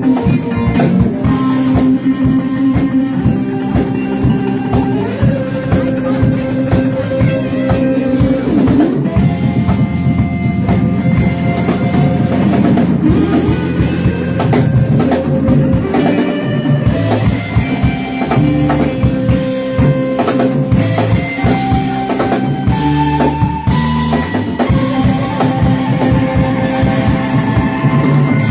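Live rock band jamming: electric guitar playing sustained, bending lead lines over bass and a drum kit.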